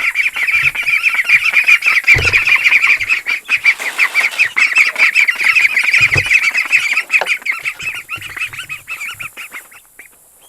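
A hungry flock of farm poultry calling loudly all together in a dense, rapid chatter, with a couple of dull thumps. The calling thins out and dies away near the end.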